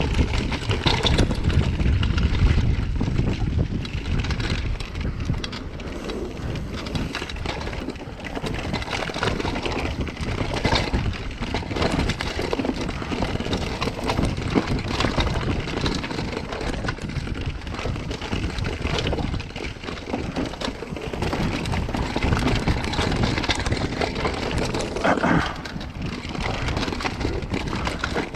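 Downhill mountain bike descending a rough trail, heard from a chest-mounted camera: tyres running over dirt and rocks, with a constant irregular rattle and knocking of the bike over bumps. Wind rumbles on the microphone, strongest in the first few seconds.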